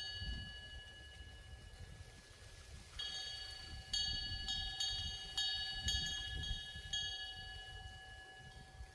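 Metal wind bell (pungyeong) ringing as its clapper swings in the wind. A faint lingering tone at first, then about eight quick strikes from about three seconds in, each ringing on and dying away, over a low wind rumble.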